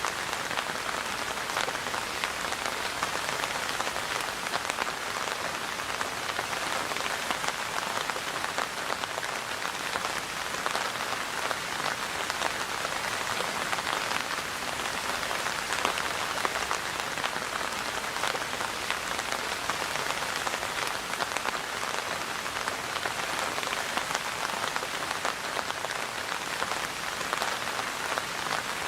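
Steady rain falling and pattering on a surface, an even hiss dotted with many small drop impacts.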